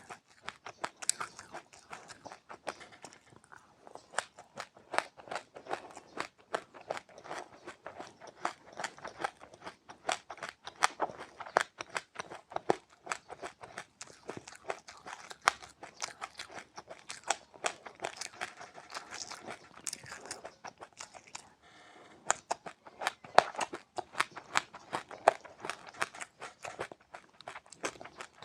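A person chewing crunchy seeds close to the microphone: a dense, rapid run of sharp crunches, with a short pause about three-quarters of the way through.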